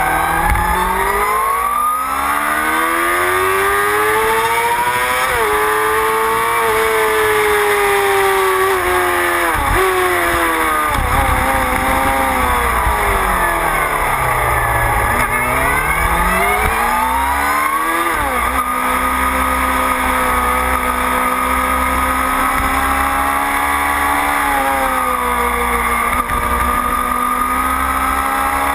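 Motorcycle engine heard from an onboard camera, with wind rush over the microphone. The revs climb, fall in steps as it changes gear, drop low about halfway through, rise again, then hold fairly steady near the end.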